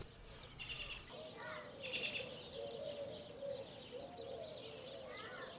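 Birds calling: a run of short, low calls repeating several times a second, with brief high chirps about half a second and two seconds in.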